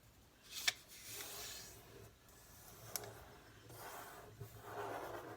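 A square of paper being folded in half and creased by hand: faint rubbing and sliding of paper, with two sharp clicks.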